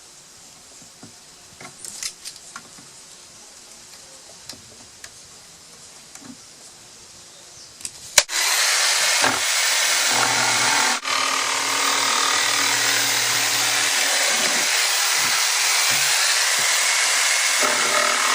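A few light handling clicks, then a power tool starts about eight seconds in and runs steadily with a high whine for about ten seconds, dropping out briefly once, as it cuts into a plastic laundry detergent bucket.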